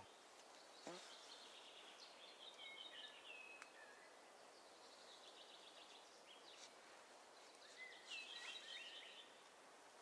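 Near silence, with faint bird song twice: short runs of high notes stepping downward, a few seconds apart.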